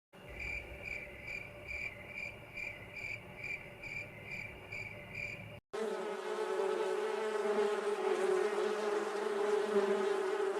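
Cricket chirping in short, evenly spaced pulses, about three a second. After a sudden cut, a flying insect gives a steady buzz.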